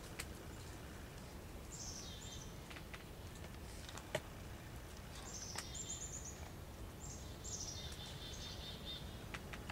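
Small birds chirping in a few short runs of high, quickly falling notes, over a faint steady background hiss. A few sharp ticks come between them, the sharpest about four seconds in.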